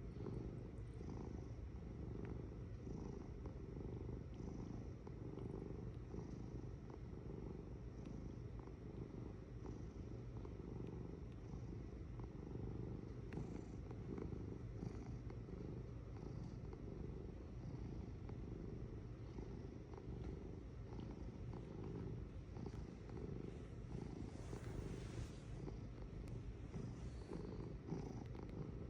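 Domestic cat purring steadily, a continuous low rumble with rapid fine pulsing, held close to the microphone.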